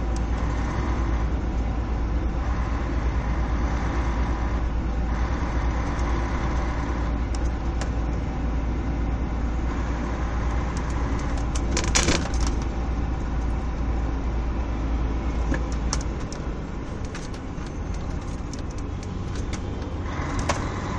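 Vehicle engine running steadily at low speed, heard from inside a car's cabin, with a deep rumble that eases off at around sixteen seconds. There is a short, loud clatter about twelve seconds in.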